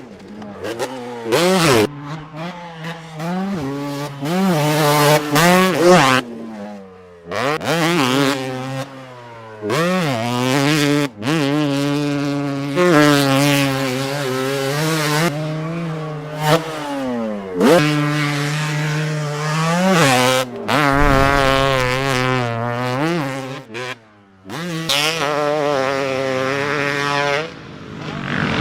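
Two-stroke motocross bike engines revving hard: the pitch climbs through the gears, drops sharply as the throttle is chopped, then climbs again, over and over. The sound breaks off abruptly several times.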